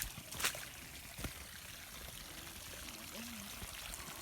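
Rainwater trickling and running over sandstone into a small pool, a steady even splashing. A couple of light knocks come in the first second or so.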